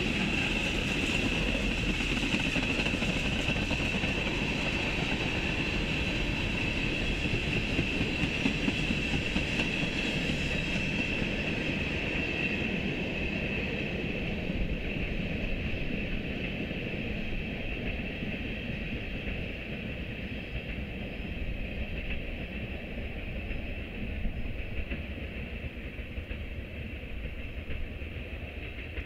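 Freight train of tank cars rolling past, with steady wheel-on-rail rumble and a high-pitched ring that fades through the second half as the last cars go by.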